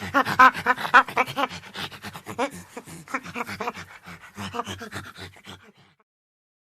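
An animal panting fast and rhythmically, several pitched breaths a second, fading out about five and a half seconds in.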